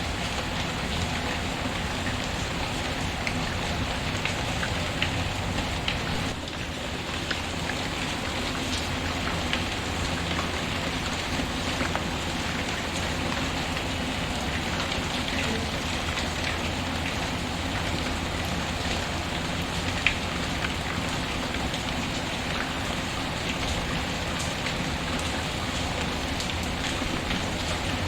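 Steady rain falling on a surface, mixed with scattered sharp crackles from a wood fire; the loudest crack comes about twenty seconds in.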